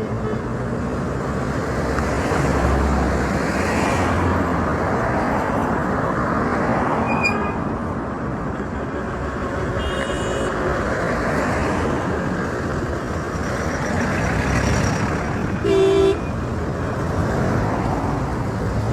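Street traffic: a steady rumble of passing vehicles, with a few brief high beeps and one short, loud vehicle horn toot near the end.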